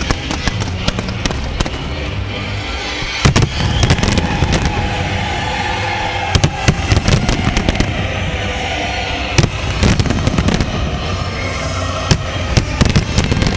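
Aerial fireworks shells bursting in clusters of sharp bangs and crackles every few seconds, over loud music playing throughout.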